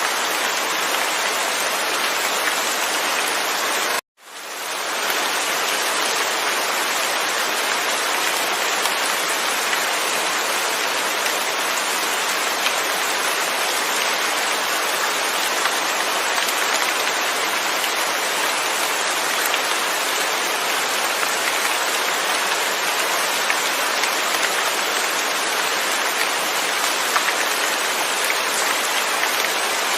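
Steady heavy rainfall without thunder, a dense even hiss. About four seconds in it cuts out suddenly to silence for a moment, then fades back in over about a second.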